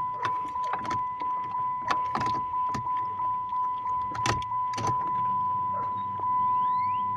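Repeated clicking from the car's electrics, about two clicks a second, over a steady high tone. About five seconds in a low electric hum starts up, while the engine does not crank.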